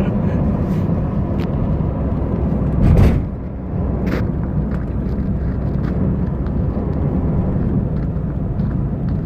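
Road and engine noise of a moving car, a steady low rumble, with a brief louder burst about three seconds in.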